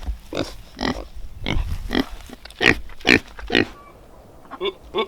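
Kunekune pigs grunting, a quick series of short grunts for the first three and a half seconds, then quieter, with a few short higher-pitched calls near the end.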